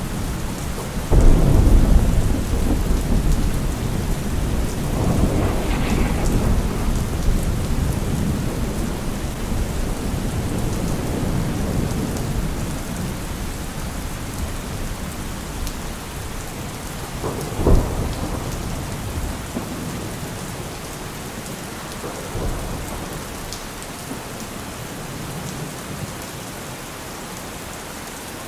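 Heavy rain falling steadily with rolling thunder. A loud low rumble of thunder breaks about a second in and rolls on, a sharper crack comes past halfway, and the storm then eases off.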